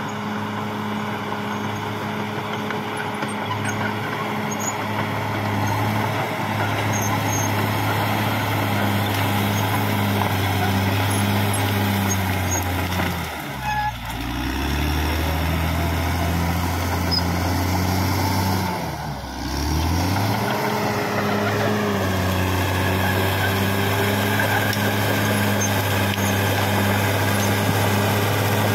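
CAT D6R XL bulldozer's diesel engine running steadily under work. Its note drops sharply twice, about halfway through and again a few seconds later, and each time climbs back to its working speed.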